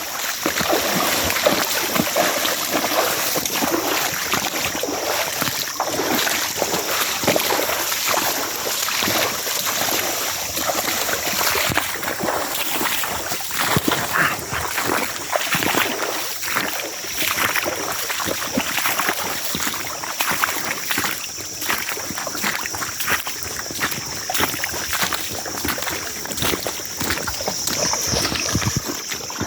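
Steady splashing of feet wading through a flowing creek, with irregular sloshes over the constant rush of the water.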